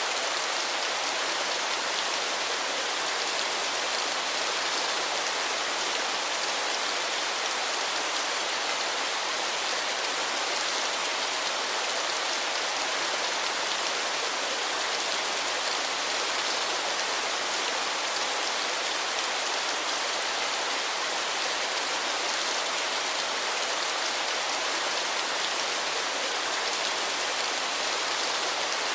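Waterfall: falling water splashing in a steady, even hissing rush, with little low rumble.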